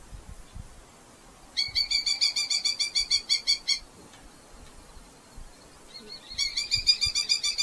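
Red-footed falcon giving rapid chattering alarm calls, a fast run of repeated sharp notes at about eight a second, in two bouts: one about a second and a half in lasting some two seconds, and another starting near the end.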